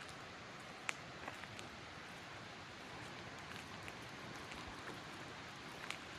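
Faint forest ambience: a steady hiss with scattered, irregular small ticks and taps.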